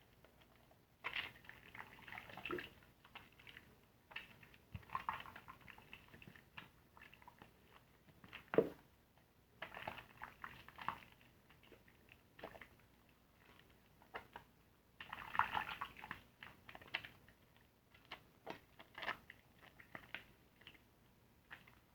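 Soapy car-wash sponge being squeezed and lathered: wet squishing and crackling foam in bouts every few seconds. A single sharper tap about eight and a half seconds in is the loudest sound.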